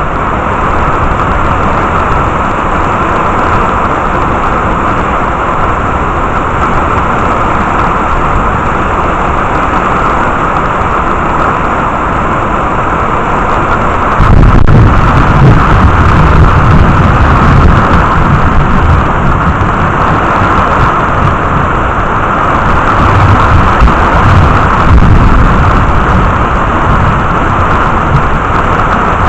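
Heavy rain falling steadily, with a low rumble of thunder that comes in suddenly about halfway through and swells again near the end.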